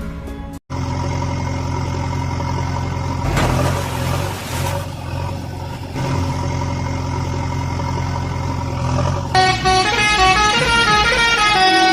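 Cartoon vehicle sound effects: a steady engine drone with horn honking. About nine seconds in, a short stepping melody of background music comes in.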